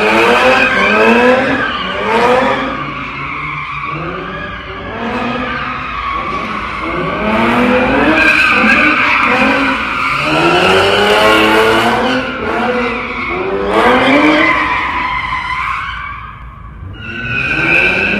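Car engine revving up again and again while its tires squeal on the pavement in a burnout or donut, easing off briefly near the end.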